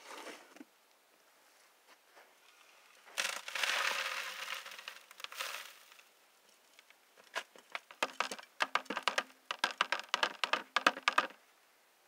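Clean-out of a Keene bellows drywasher: dry gravel and sand concentrate pours with a rushing noise for a couple of seconds about three seconds in. Later comes a quick run of sharp clicks and rattles lasting several seconds.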